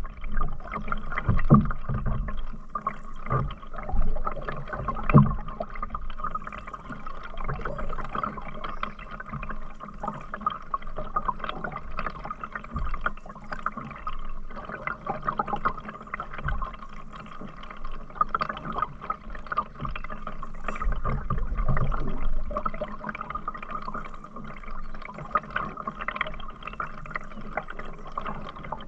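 Water splashing and lapping around a canoe on a river, with a few short low thumps in the first few seconds and again around sixteen and twenty-two seconds in.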